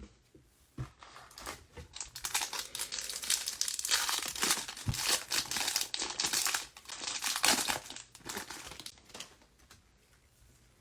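Foil trading-card pack wrapper being torn open and crinkled, crackling for several seconds, then dying away near the end.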